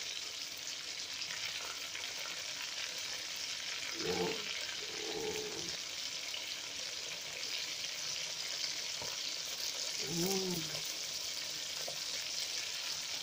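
Chicken wings frying in bubbling oil in a frying pan: a steady sizzle.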